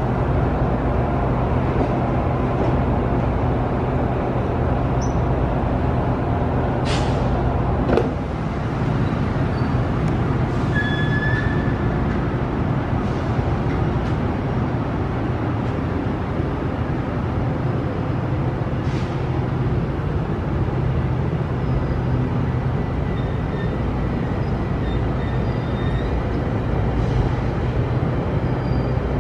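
GO Transit bilevel commuter train pulling out of the station, its coaches moving past the platform with a steady low rumble and hum. A short sharp sound cuts through about seven seconds in.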